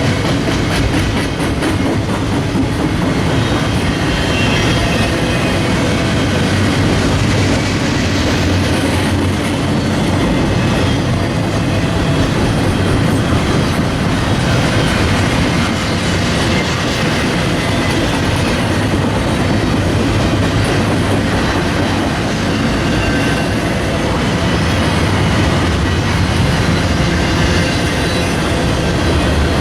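A train passing close by: a steady, loud rumble of railcars rolling over the track with no let-up.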